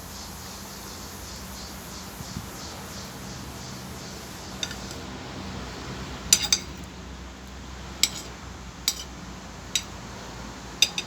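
Cutlery clinking against a plate while eating: a handful of sharp, scattered clinks over a steady background hiss, the loudest about six seconds in.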